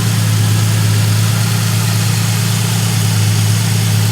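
2007 Ford Mustang's 4.0-litre V6 engine idling steadily.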